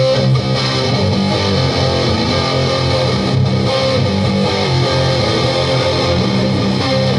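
Live band playing a song's instrumental intro: guitars strumming over a bass line, with steady held notes and no singing.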